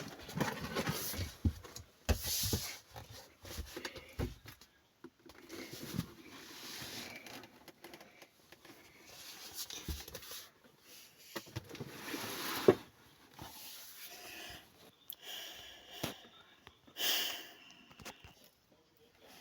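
A cat moving about in a box: irregular rustling and scratching with soft knocks, and one sharper knock about twelve seconds in.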